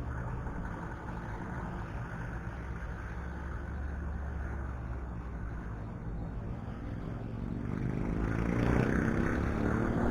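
Motorcycle engine running while riding, with wind rumble on the action camera's microphone. About eight seconds in the engine gets louder and a higher engine note comes in.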